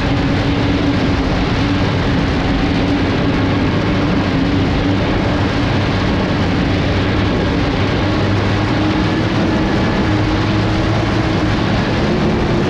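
Unlimited hydroplane's turbine engine, a Lycoming T55, running steadily, heard onboard over a heavy rush of wind and water. Its hum holds steady and edges slightly higher in pitch near the end.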